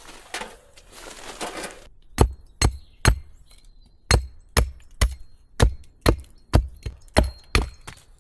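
Soft rustling on the forest floor, then about a dozen hard knocks of a striking tool on wood, two to three a second, each with a heavy thud.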